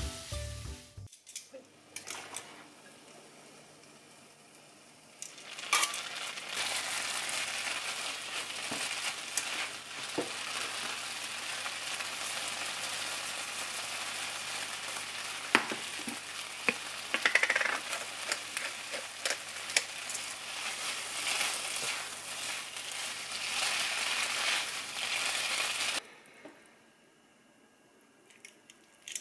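Food sizzling in olive oil in a frying pan, with scattered clicks of a utensil stirring it. A faint sizzle grows suddenly louder about five seconds in, holds steady, and cuts off abruptly near the end.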